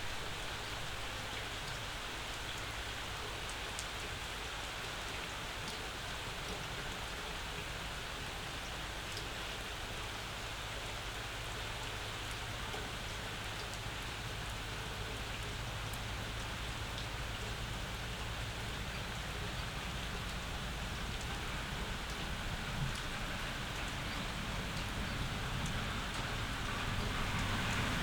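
Steady summer rain falling, an even hiss with individual drops ticking close by. A low rumble swells slightly near the end.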